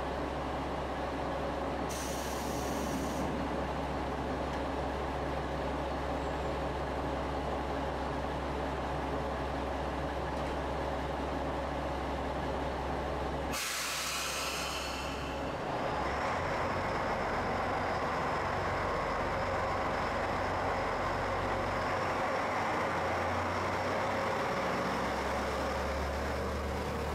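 Diesel railcar of a JR Shikoku Dosan Line local train running at the platform, with a short hiss of compressed air about two seconds in. A longer, louder hiss of air comes about halfway through, then the engine and running noise rise with a high steady whine as the train pulls away.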